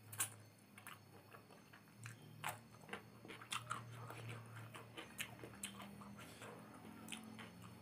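Close-miked mouth sounds of someone chewing instant noodles with meat, with sharp wet smacks and clicks every second or so. A low steady hum lies underneath.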